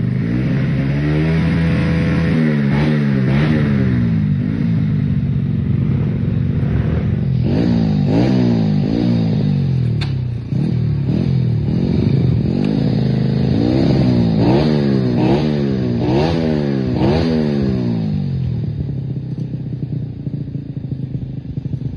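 Trail motorcycle engine revving hard again and again, its pitch climbing and dropping in quick succession as the throttle is worked, settling to a quieter steady run near the end. One sharp click about halfway through.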